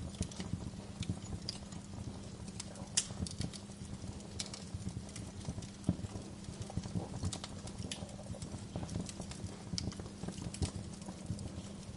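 Wood fire crackling in a fireplace: irregular pops and snaps over a low, dense rustle, with a steady low hum underneath. The sharpest pops come about three and six seconds in.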